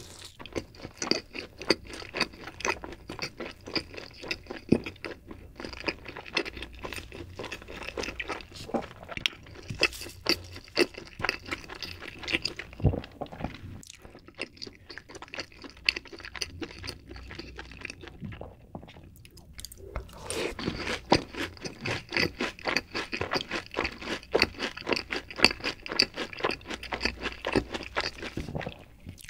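Chewing and crunching of crispy fried cheese balls: a dense run of crisp crackles with two short lulls.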